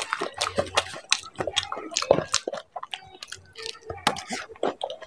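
Close-up wet chewing of yogurt-loaded dahi puri: a quick run of moist smacking clicks from the mouth, with a sharper, louder click about four seconds in as the next puri goes in.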